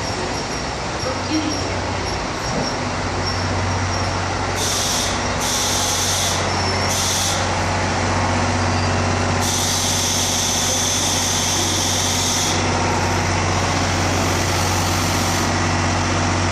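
KiHa 183 series diesel train standing with its engine idling in a steady low hum. Compressed air hisses out from the brakes in bursts: three short hisses a few seconds in, a longer one of about three seconds in the middle, and a fainter one near the end.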